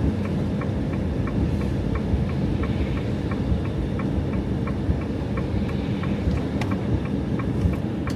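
Steady low rumble of a camper van driving on a wet road, heard from inside the cab, with a light regular ticking two or three times a second over it.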